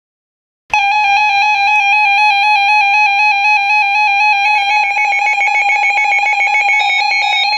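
Emergency alert receivers sounding their electronic alarm tones for an incoming severe thunderstorm warning. After a brief gap a loud, steady tone begins, and about four and a half seconds in a second alarm joins with a rapid pulsing beep.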